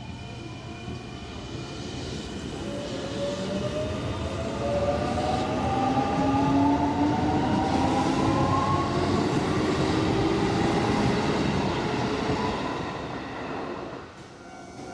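Hanshin electric train pulling away, its traction motors whining in several tones that climb steadily in pitch as it accelerates, growing louder then fading away near the end.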